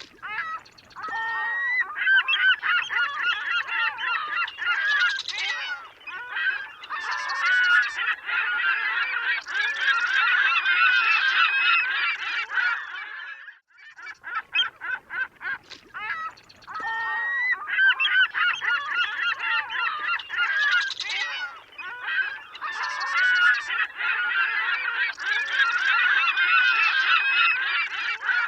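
A flock of seagulls calling, many cries overlapping. The dense calling thins to a few short separate calls near the start and again about halfway, the same stretch repeating.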